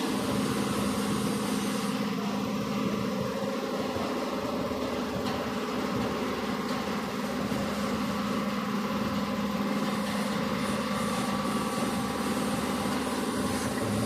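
MAN diesel engine swapped into a GAZ-3309 truck, running at a steady idle on one of its first starts.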